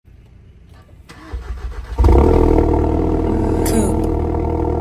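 Car engine cranking and catching about two seconds in, then running steadily at a fast idle.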